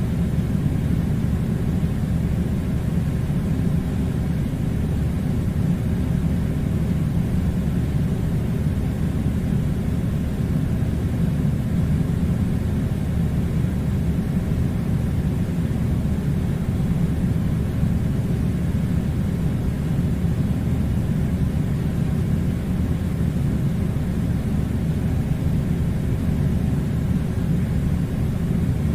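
Air conditioner running: a steady, unchanging low rumble and rush of blown air.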